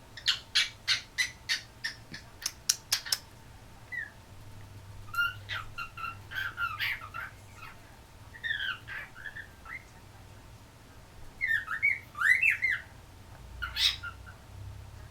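Cockatiel calling. It opens with a quick run of about a dozen short sharp chirps, then gives warbling chirps and whistled notes that slide up and down, with a loud squawk near the end.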